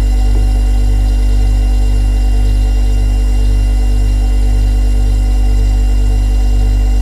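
Refrigerator compressor running, a steady, loud, low electrical hum with a few fixed higher tones over it.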